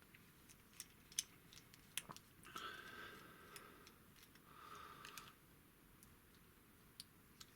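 Faint, scattered clicks and soft rustles of hard plastic toy parts being handled as the figure's hip section is worked apart.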